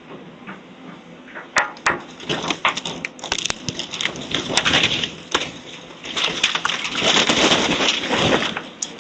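Demolition debris from a house teardown cracking, snapping and crunching as it is broken up and moved: a run of sharp snaps from about a second and a half in, then a dense spell of crackling and crunching, over a steady low hum from a heavy machine's engine.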